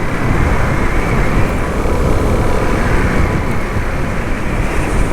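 Steady wind rush and low rumble from a Suzuki DR-Z400SM supermoto being ridden along a road, its single-cylinder engine running under the wind noise on the rider's microphone.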